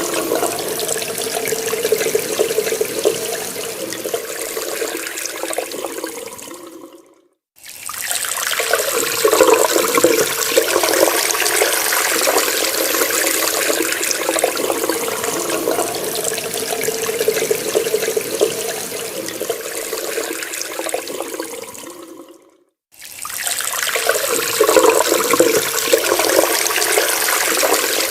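Water running from a tap and splashing steadily into a sink. The sound fades out to silence briefly twice, about 7 and 23 seconds in, and comes back each time.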